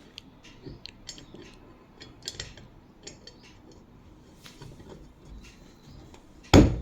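Light metal clicks and clinks from fan parts and screws being handled during assembly, with one loud knock about six and a half seconds in.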